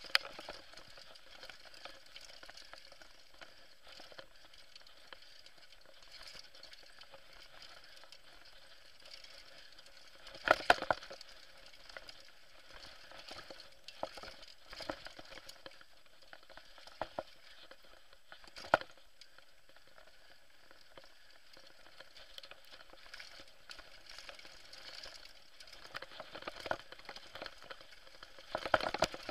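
Bicycle rolling fast down a dirt trail: a steady crackling of tyres on loose ground, with sharp knocks as the bike hits bumps about ten seconds in, again just before twenty seconds, and several more near the end.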